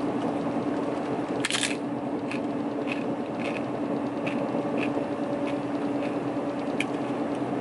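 Biting and chewing a crisp fried tostada: one loud crunch about a second and a half in, then a string of smaller crunches, over a steady low hum.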